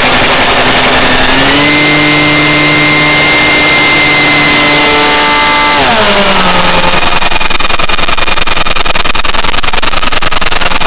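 Electric RC plane's motor and propeller whining close up, over a heavy rush of air on the microphone. The pitch climbs about a second and a half in, holds steady, then slides down about six seconds in as the throttle comes back.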